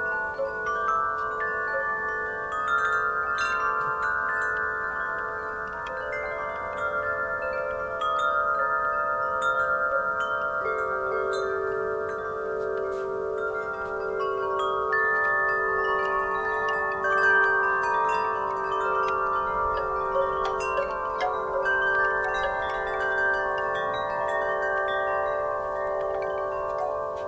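Wind chimes ringing in a breeze: many long, overlapping metallic tones struck irregularly, each ringing on for several seconds.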